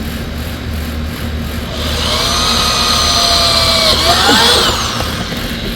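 Power drill with a 3/16-inch bit drilling through a stick-on drilling template into a motorcycle tour pack: the motor whines for about three seconds, sagging slightly under load, then its pitch rises sharply before it stops. A steady low hum runs underneath.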